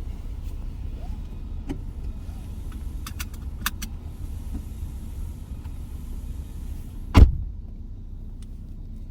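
Steady low rumble of a car, with a few light clicks and one loud thump about seven seconds in.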